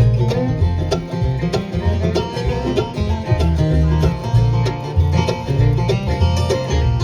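Live bluegrass band playing an instrumental passage: banjo and guitar picking over a walking bass line, with no singing.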